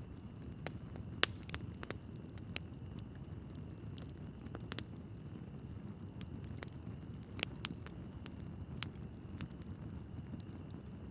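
Wood logs burning in a fireplace: a steady low rumble of flame with scattered crackles and pops, the sharpest about a second in and two more near the end.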